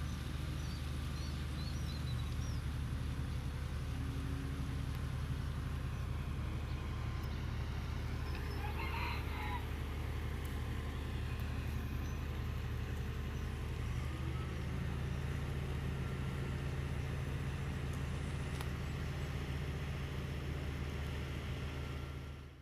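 A boat's engine drones steadily at a constant low pitch. About nine seconds in, a rooster crows once over it.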